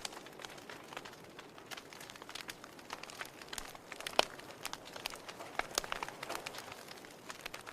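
Wood fire crackling in a fireplace: irregular sharp snaps and pops over a soft steady hiss, with one louder pop about four seconds in.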